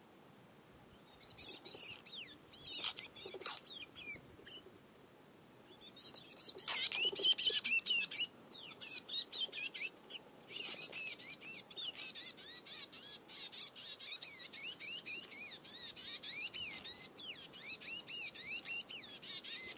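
Birds chirping and calling in quick, overlapping notes. They start about a second in, are loudest around a third of the way through, then carry on as a dense run of rapid chirps.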